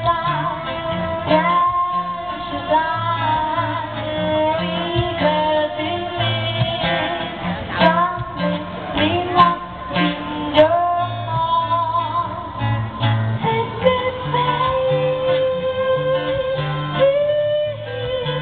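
A song with a voice singing a melody over plucked and strummed guitar and a steady bass line.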